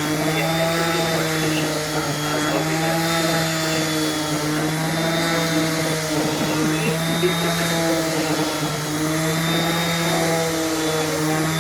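Bosch electric orbital sander running steadily while sanding a stool. It gives a constant motor hum whose pitch wavers slightly now and then.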